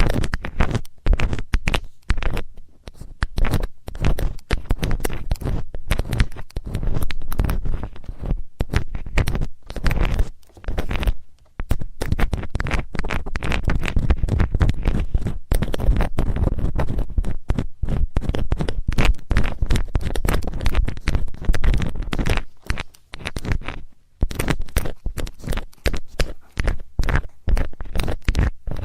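ASMR ear cleaning with a metal tool scratching and scraping close to the microphone, in quick, irregular strokes with a few brief pauses.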